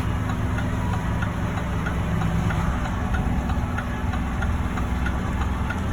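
Heavy roll-off truck's diesel engine running steadily at low revs in super low gear, crawling down a steep hill, with a faint regular ticking over it.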